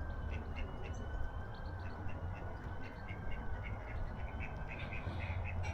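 Ducks and small birds calling, with many short chirps scattered throughout, over a steady low rumble of wind on the microphone.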